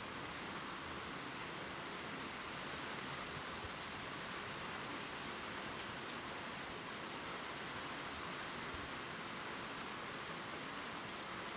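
Gentle rain falling on leaves: a steady, even hiss, with a couple of faint drop ticks.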